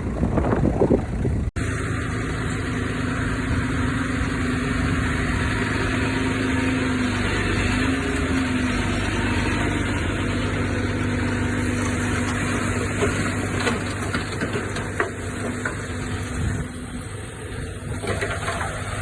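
Heavy diesel earthmoving machinery running steadily, a continuous engine drone with a slight change in pitch about seven to eight seconds in. In the first second and a half there is a knocking, clattering stretch that ends abruptly at a cut.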